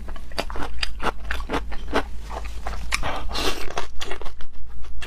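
Close-miked eating: crunchy bites and chewing, a dense run of sharp crackly clicks that settles into about four to five chews a second in the second half.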